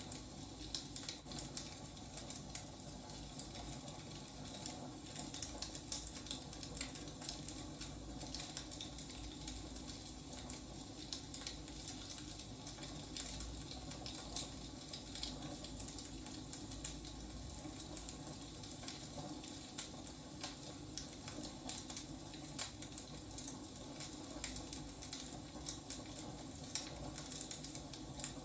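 Wood fire burning, crackling steadily with frequent small irregular pops over a soft hiss.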